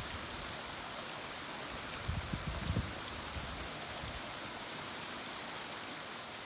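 Steady rushing of falling water from a creek or waterfall, an even hiss with a few brief low thumps about two seconds in.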